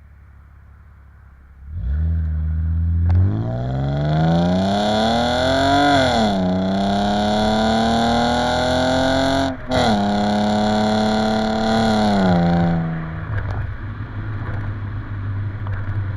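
Exhaust of a 1998 BMW E36 M3's 3.2-litre straight-six through a Magnaflow dual in/out muffler under acceleration. A low rumble starts about two seconds in, then the pitch climbs, drops at a gear shift and climbs again. After a brief break it holds steady, then falls away near the end as the engine comes off the throttle.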